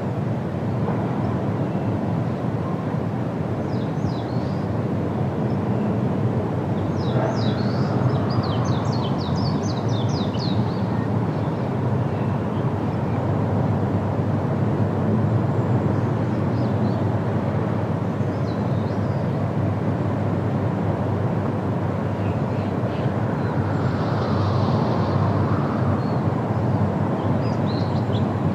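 Steady wind rushing through trees in leaf, with small birds chirping now and then above it; a quick run of chirps comes about seven to ten seconds in.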